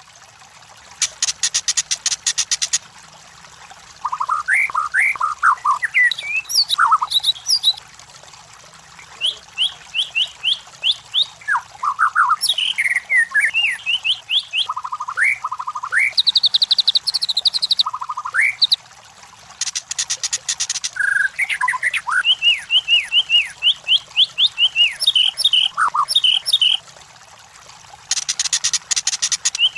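White-rumped shama (murai batu) singing: a varied run of short, clear whistled notes and phrases that rise and fall. Three fast rattling bursts break in, about a second in, near the middle and near the end.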